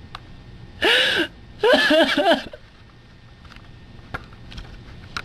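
A young man's voice breaking into two short, loud crying wails with breathy gasping, about a second in and again just after.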